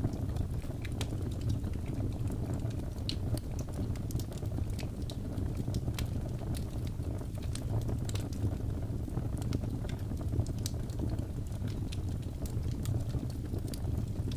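Wood fire burning: a steady low rumble of flames with frequent sharp crackles and pops at irregular intervals.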